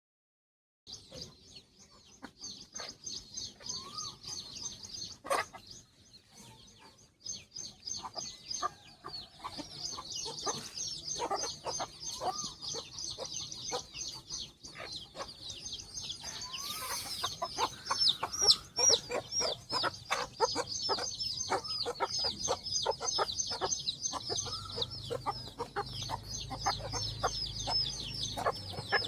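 Chicks peeping in a dense stream of rapid high chirps, with a hen clucking among them, starting about a second in.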